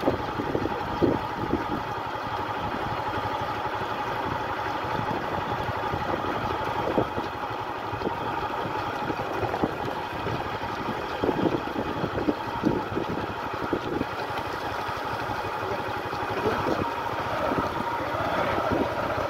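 Vehicle engine running slowly and steadily, with wind buffeting the microphone.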